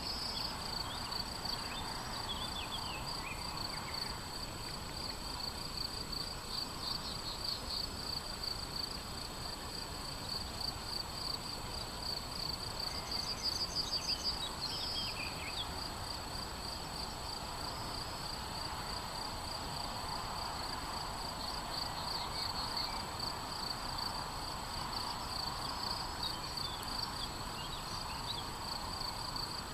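Insects chirping in a continuous, fast-pulsing trill over a grassy field, with a few brief bird chirps about two seconds in and again around the middle.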